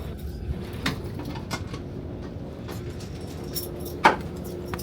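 Passenger train running, heard from inside the carriage: a steady low rumble with a faint hum, a few light clicks and rattles, and one sharp knock about four seconds in.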